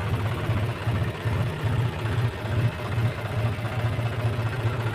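John Deere 5045 tractor's three-cylinder diesel engine idling steadily, freshly started.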